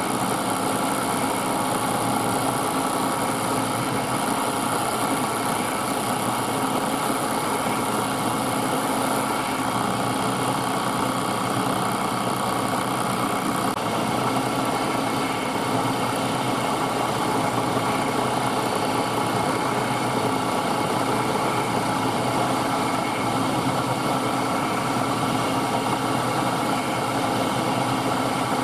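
Milling machine running steadily while its cutter takes a 1 mm deeper pass around a brass part on a rotary table. A high hiss drops out about halfway through.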